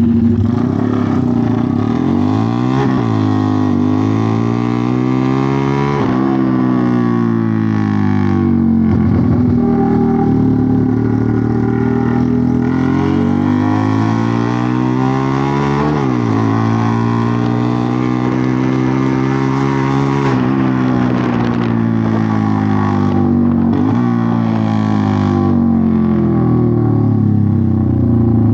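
A continuous engine-like drone, its pitch slowly sweeping up and down every few seconds.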